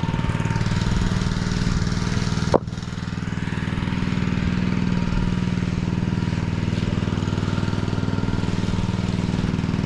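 An engine running steadily at a constant speed on a concrete pour site. There is a sharp click about two and a half seconds in, after which the engine is slightly quieter.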